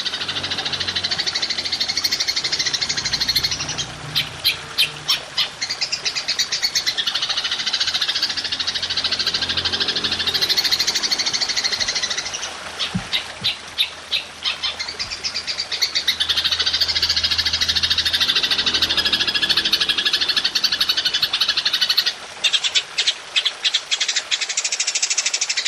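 Golden grasshopper (belalang emas) calling: long high buzzing trills of a few seconds each, alternating with runs of sharp pulsed chirps, about three or four a second, and a faster run near the end.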